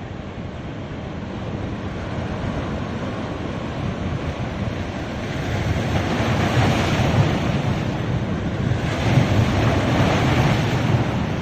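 Ocean surf washing onto a beach, a steady rush that swells twice as waves break, about five and nine seconds in, with wind buffeting the microphone.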